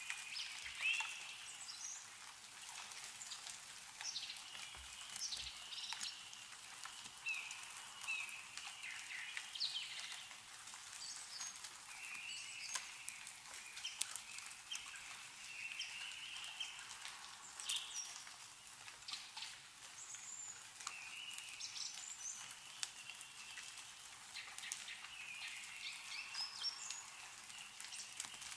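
Meltwater dripping and pattering from snowy trees in scattered sharp drops, with songbirds chirping and warbling in short calls throughout.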